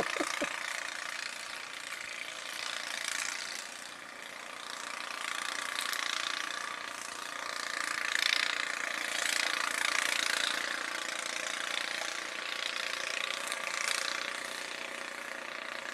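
Snow blower engine running steadily, its level slowly swelling and fading.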